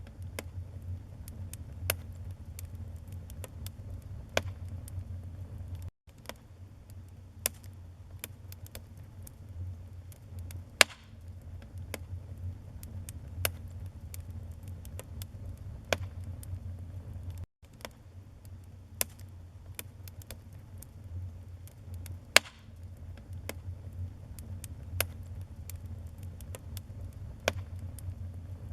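Wood fire burning in a fireplace: a low steady rumble of the flames with irregular sharp crackles and pops from the burning wood, a few much louder than the rest. The sound cuts out briefly twice.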